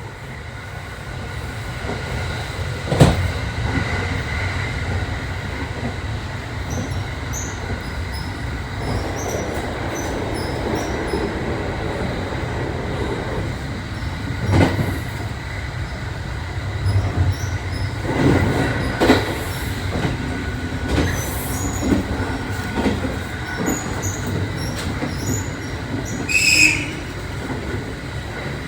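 JR 681 series electric train running, heard from inside the car: a steady low rumble with occasional knocks and rattles, the sharpest about three seconds in. There is a short higher-pitched sound near the end.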